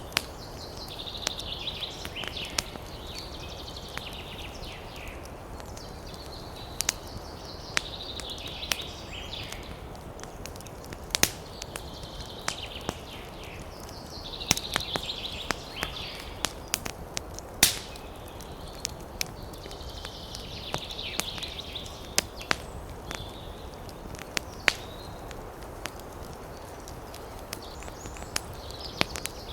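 Wood fire burning in a fireplace: irregular sharp crackles and pops over a steady low rush of flame. A higher-pitched sound, a few seconds long, comes back roughly every six seconds.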